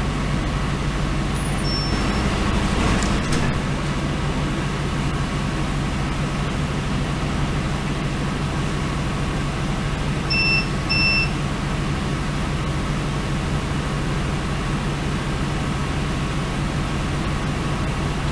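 Running noise inside a moving Northern Ireland Railways diesel train carriage: a steady rumble with a low hum, swelling briefly early on. Two short high beeps sound a little past halfway.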